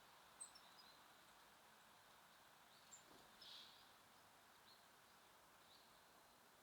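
Near silence with a few faint, short songbird chirps scattered through it over a low steady outdoor hiss.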